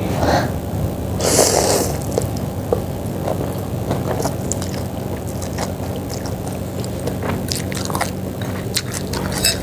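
Close-miked chewing and biting while eating chicken-feet soup (soto ceker), with a louder noisy burst about a second in and small scattered clicks later, over a steady low hum.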